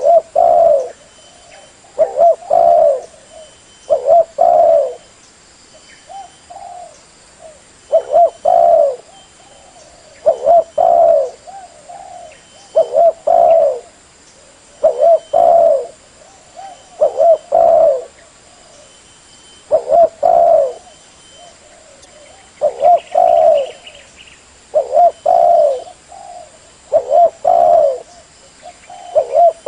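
Spotted dove (tekukur) cooing over and over, a low phrase of a few coos about every two seconds.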